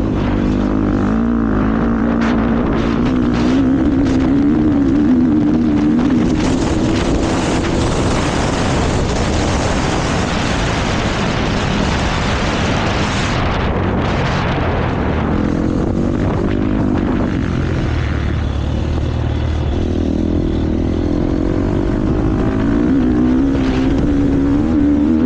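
KTM motocross bike engine under race throttle, its pitch rising and falling as the rider opens and shuts the throttle. A rushing noise covers the engine for several seconds in the middle.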